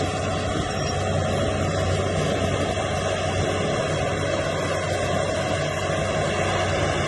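Bulldozer's heavy diesel engine running steadily under load, a deep even drone.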